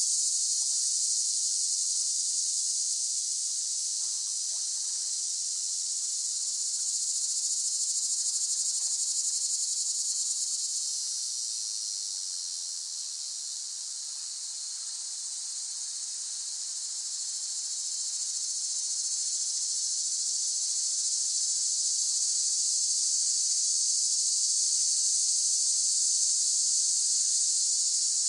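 Cicadas buzzing in a continuous high-pitched drone. It fades slightly about halfway through and swells back.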